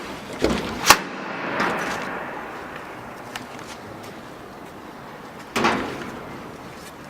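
A few knocks and thuds: a thud and a sharp knock within the first second, then a heavier thud a little before six seconds, each trailing off, over a steady background hiss.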